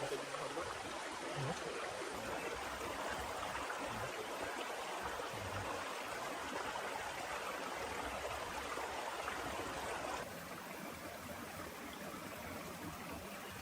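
Heavy rain falling steadily, an even, dense hiss; it drops a little in level about ten seconds in.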